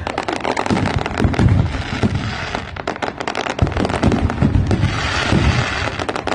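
Diwali firecrackers going off in rapid, overlapping succession: a dense crackle of many sharp bangs over a low rumble, thinning out briefly about halfway through.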